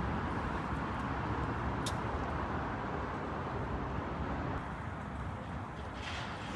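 Steady outdoor street ambience with the rumble of passing road traffic, a brief sharp tick about two seconds in and a short hiss near the end.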